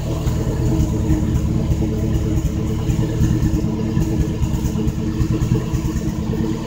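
Austin A35's BMC A-series four-cylinder engine running steadily at idle, with its cylinder head newly replaced.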